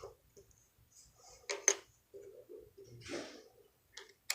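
Small objects being handled on a tabletop: two sharp clicks about a second and a half in, a short rustle near three seconds, and another click near the end.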